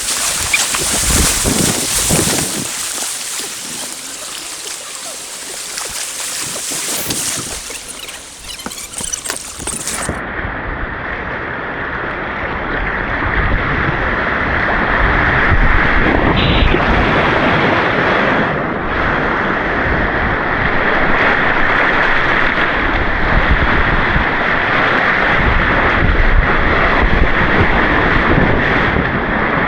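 Rushing white-water rapids, a steady loud hiss of churning water. About ten seconds in the sound abruptly turns duller and gets louder.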